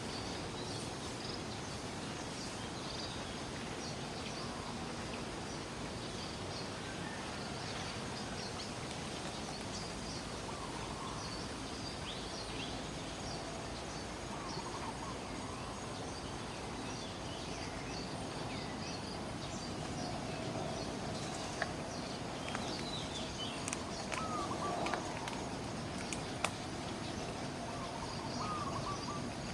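Steady outdoor background hiss with scattered short, high chirps and squeaks from birds or small animals, and a few sharp clicks in the last third.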